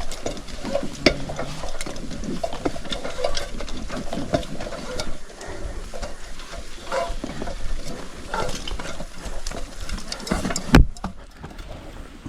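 Irregular clicks, knocks and rustling from a climber and his gear working up a ladder, with one loud knock near the end.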